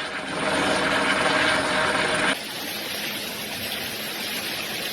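A steady engine drone with a constant hum over a loud rushing noise. It cuts off abruptly about two and a half seconds in, giving way to a quieter, even rushing noise.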